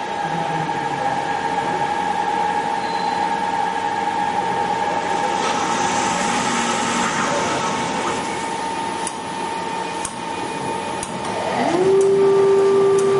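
Hager HD300A-CNC computer-controlled wood lathe running with a steady motor whine. A rushing noise rises for a couple of seconds about halfway through, a few sharp clicks follow, and near the end a motor spins up, its pitch rising and then holding steady.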